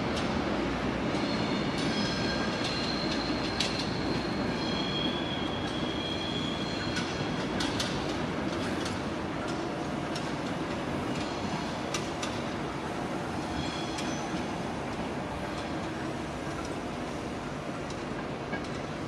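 A train moving away along the tracks, its rumble slowly fading, with high-pitched wheel squeal in the first half and again briefly later, and a few sharp clicks of wheels over rail joints or points.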